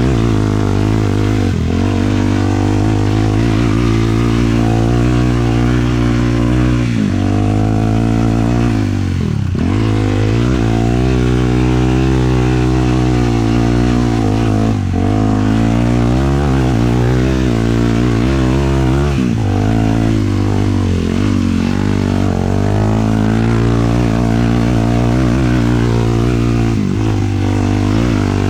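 Sport quad's single-cylinder 450 four-stroke engine running under load through the dunes, its pitch rising and falling with the throttle. It drops sharply about five times as the throttle is rolled off and back on.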